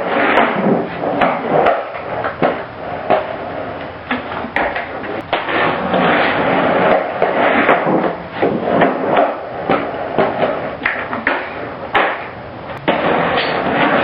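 Skateboard being ridden in a garage: wheels rolling over the floor, with repeated sharp clacks of the board popping and landing scattered throughout.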